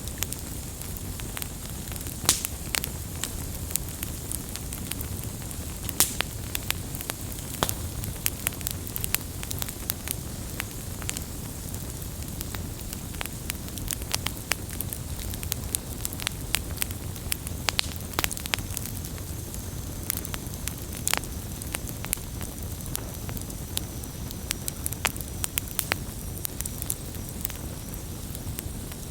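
Wood campfire burning with a steady low rumble and hiss, and irregular sharp pops and crackles of the burning wood, a few louder snaps among them.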